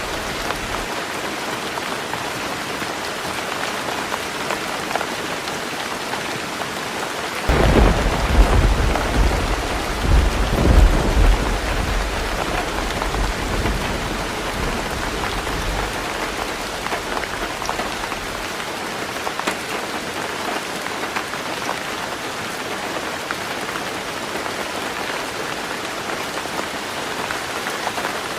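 Heavy rain drumming steadily on a tin roof, with a sudden rumble of thunder about a quarter of the way in that swells for a few seconds and then fades back under the rain.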